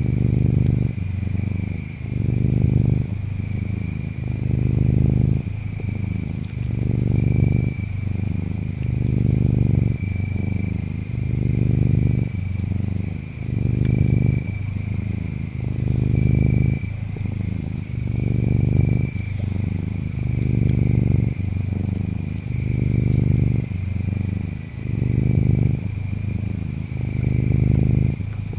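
Domestic cat purring close up, a low rumble that swells and eases with each breath about every two seconds. Insects chirp steadily underneath, a high trill with short higher bursts every few seconds.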